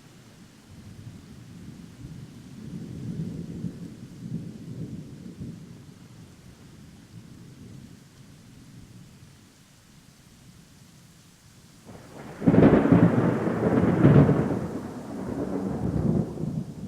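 Thunder during a thunderstorm with rain. A low rumble swells and fades, then a sudden loud crack of thunder comes about twelve seconds in, with a second peak a second and a half later, and rolls off into rumbling.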